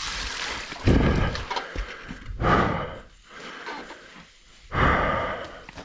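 A mountain biker's heavy breathing: three loud, hoarse breaths a second or two apart, with quieter hiss between them.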